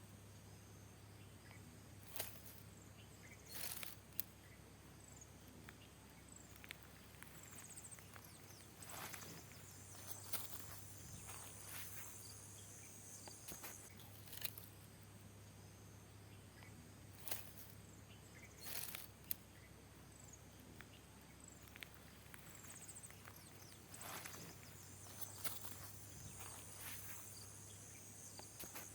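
Faint forest ambience: a steady high insect drone with a few short high chirps, over a low steady hum. Brief scuffs and knocks come every few seconds and are the loudest sounds.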